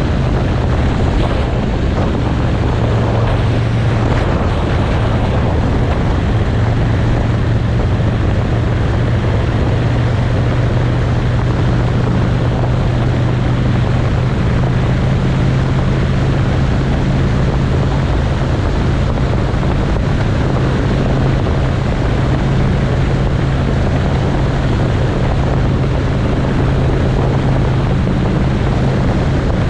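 Motorcycle engine running at a steady cruise, its pitch shifting only slightly, with wind rushing over the microphone.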